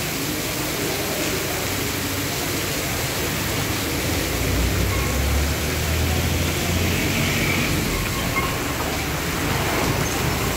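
Heavy rain pouring down on a road and foliage, a steady, even hiss. A low engine rumble from a passing motor vehicle joins it around the middle.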